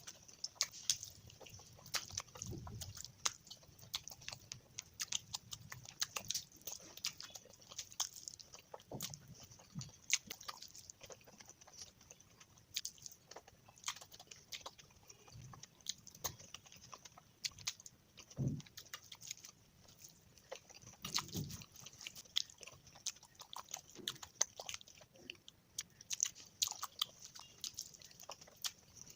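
Close-miked chewing of spicy fish curry: a dense run of small, irregular wet mouth clicks, with a few soft low thumps.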